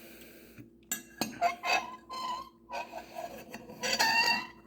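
Metal cutlery clinking against a coffee mug and dishes, with several short pitched squeaky calls or squeals in between, the loudest about four seconds in.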